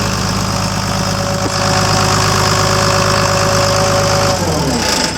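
Caterpillar D5C diesel engine running steadily, then shut off about four seconds in, its note sliding down as it winds to a stop.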